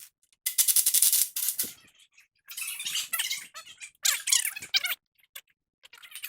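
A wrench spinning the nut off a tie rod end stud in three bursts of rapid clicking and rattling. The first burst starts about half a second in.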